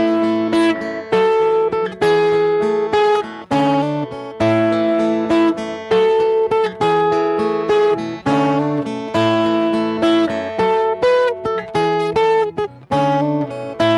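D&D Django Senior acoustic guitar being strummed and picked in a ballad, chords struck in a steady rhythm and left to ring.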